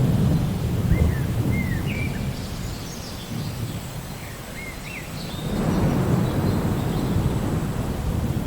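Steady rain with two long low rolls of thunder, one at the start and another building from about five and a half seconds in. Birds chirp briefly in between.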